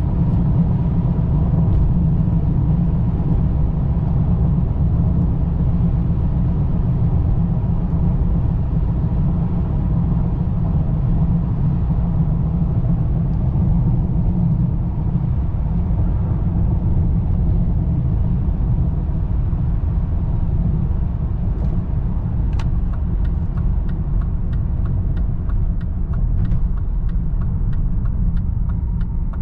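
2003 BMW 525i with its 2.5-litre inline-six running at a steady pace, a constant low rumble. A string of light clicks comes in over the last several seconds.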